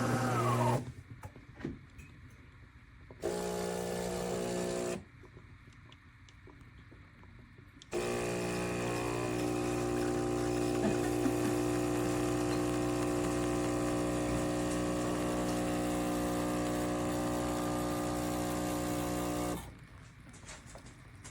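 De'Longhi Magnifica Start espresso machine's pump humming in runs: one ends just under a second in, a short run lasts about two seconds, and a long steady run starts about 8 s in and lasts about twelve seconds.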